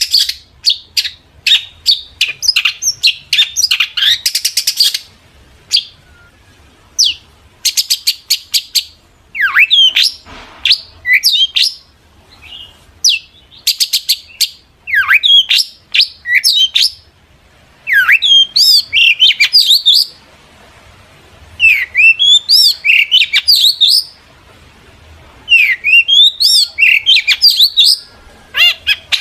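Long-tailed shrike singing vigorously: fast chattering runs of clicking notes at first, then repeated bursts of quick sweeping whistled notes with short pauses between them.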